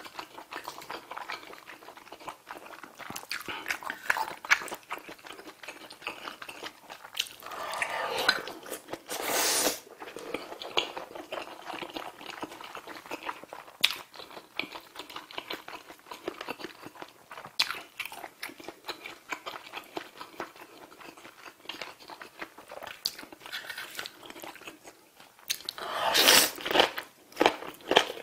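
Close-miked eating of instant black bean noodles with sliced braised pig's trotters and kimchi: wet chewing and smacking with many small clicks, and two longer, louder stretches about eight and twenty-six seconds in as mouthfuls of noodles go in.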